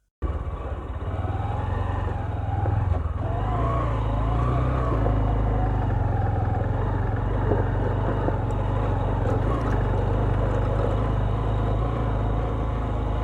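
A 125cc motorcycle running steadily on the move, its low engine rumble constant throughout.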